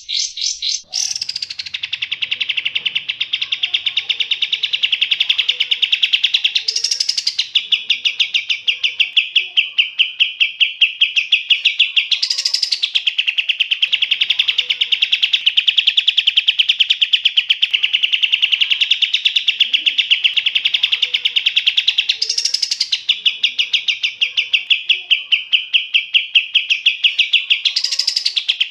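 Recorded songbird delivering a very fast, unbroken trill, with a louder, higher rising note repeating every five seconds or so. It starts about a second in, just after a cut from a different track.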